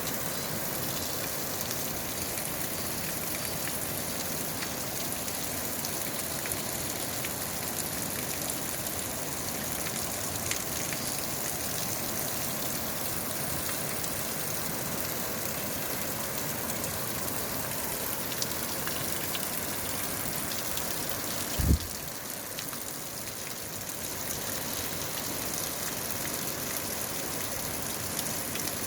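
Mountain valley stream rushing steadily, an even watery hiss. A single brief low thump sounds about three-quarters of the way through.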